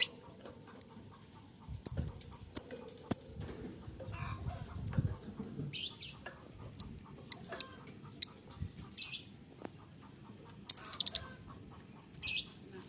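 Lovebird giving short, shrill, high-pitched chirps, repeated at uneven intervals every second or two.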